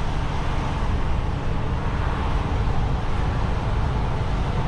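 DAF XF truck driving steadily at city speed: an even drone of engine and road noise with no sudden events.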